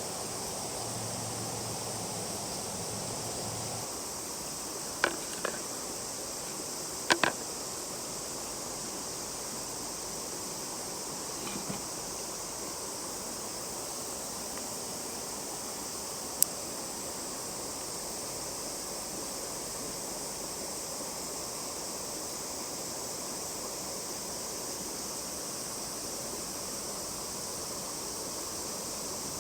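Steady outdoor riverside ambience: even rushing of running water with a high steady hiss, broken by a handful of short, sharp clicks or knocks in the first half, two of them close together.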